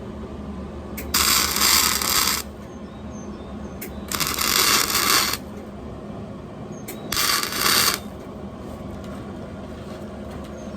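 Electric arc welding in three short bursts of hissing crackle, each about a second long, over the steady hum of the welder.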